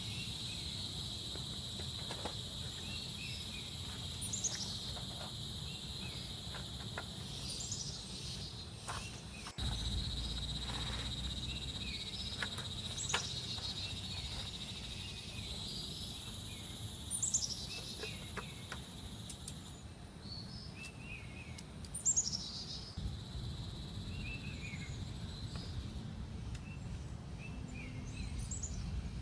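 Forest ambience: a steady high-pitched insect drone, with birds calling in short falling chirps every few seconds.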